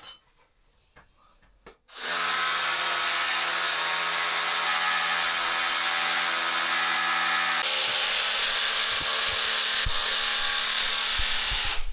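A power drill runs steadily for about ten seconds, starting and stopping abruptly. Its pitch shifts a little partway through.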